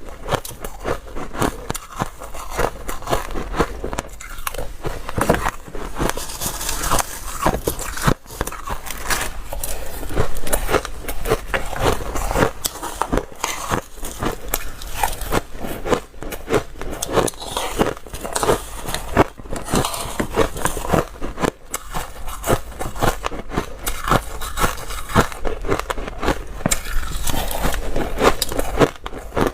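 Ice being bitten and chewed close to the microphone: dense, irregular crunching and crackling throughout, with a faint steady low hum underneath.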